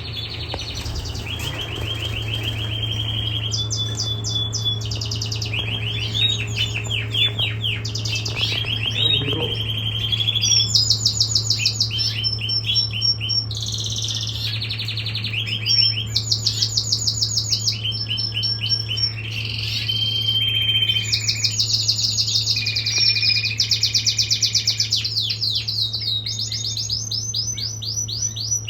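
Male canary singing one long continuous song made of runs of rapidly repeated trilled notes that change pitch from run to run, over a steady low hum.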